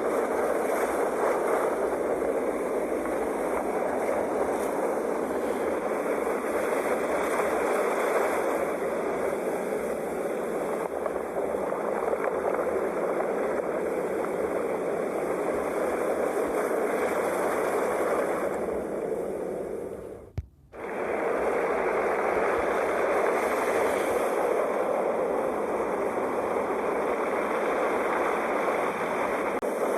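Sea waves as a steady, continuous wash of surf with gentle slow swells. About twenty seconds in, the sound cuts out for a moment with a click, like a loop splice.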